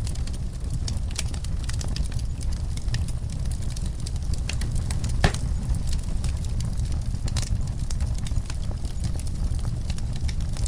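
Wood fire in a fireplace crackling, with scattered sharp pops over a steady low rumble. One louder pop comes about halfway through.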